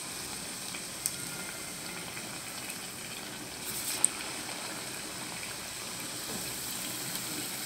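Battered ajwain leaves deep-frying in hot oil: a steady bubbling sizzle, with a short sharp click about four seconds in as more battered leaves go into the oil.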